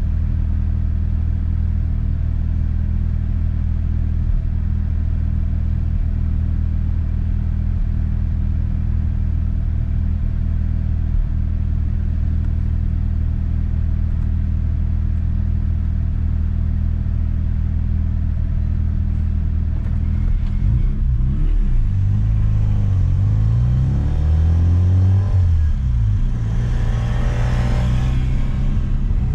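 1992 Mazda RX-7 FD's twin-rotor 13B rotary engine idling steadily, heard from inside the cabin; about twenty seconds in it revs up and drops back through gear changes as the car pulls away, with a louder rush of noise near the end.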